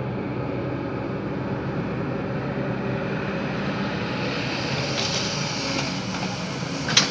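Heavy vehicle's diesel engine running steadily, with a brief hiss about five seconds in and a single sharp metallic clank near the end.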